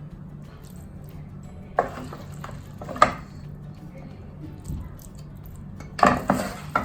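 Metal spoon clinking and scraping against a cooking pot while marinated chicken masala is spooned onto a layer of rice. There are a few single clinks, then a quick run of knocks near the end, over a steady low hum.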